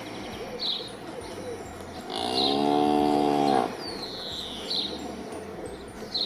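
A cow mooing once, one steady call about a second and a half long in the middle, with birds chirping in short high notes every second or two.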